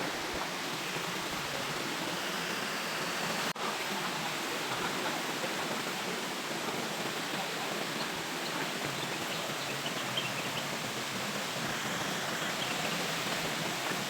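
Waterfall water rushing in a steady, even roar, with a very short break about three and a half seconds in.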